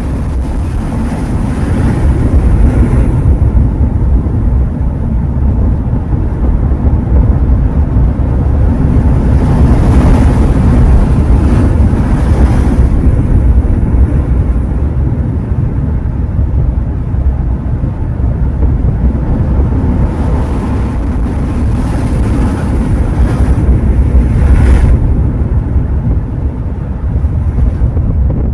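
Ocean surf on the shore, waves swelling and washing in several times, with a heavy low rumble of wind on the microphone.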